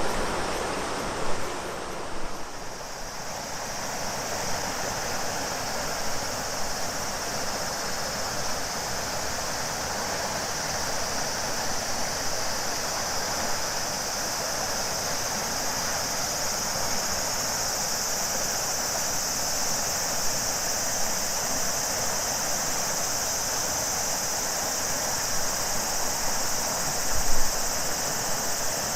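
The Shimanto River flowing with a steady rushing sound, under a continuous high drone of summer cicadas that swells in the second half. The sound of the water shifts about two seconds in, and there is a brief low thump near the end.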